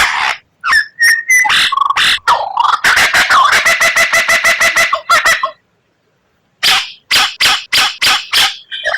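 White-rumped shama (murai batu) song: a few short whistled notes, then a fast rattling run of notes about six a second, a pause, and a slower series of sharp notes.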